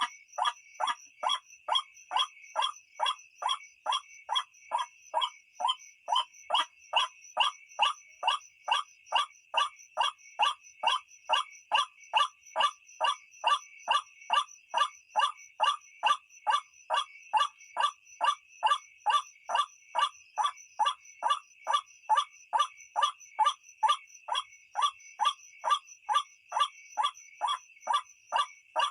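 White-breasted waterhen (ruak-ruak) calling: a monotonous series of short, identical calls repeated about twice a second without a break, the call used as a lure for night bird-trapping. A steady high-pitched drone runs underneath.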